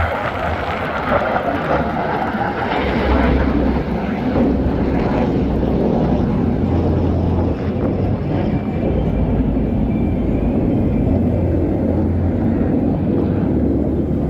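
Jet noise from Black Eagles T-50B Golden Eagle aerobatic jets in flight: a steady, loud rumbling roar. A higher hiss in the first few seconds eases off after that.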